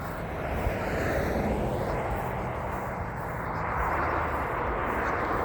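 Engine noise from a passing vehicle: a broad rushing hum that swells about a second in and again near the end.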